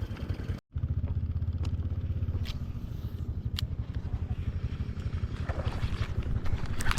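A small boat engine running steadily with a low, fast pulsing beat, cut off completely for a moment about half a second in.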